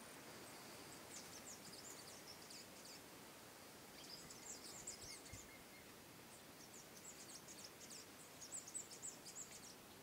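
Faint high-pitched chirping of small birds in three short runs of rapid notes, over a soft steady outdoor hiss.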